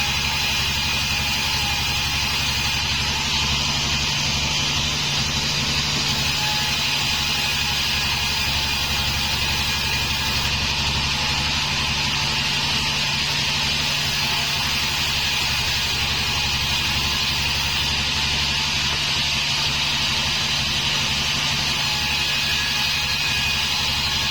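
Homemade band sawmill running steadily: a constant low machine drone with a hiss above it.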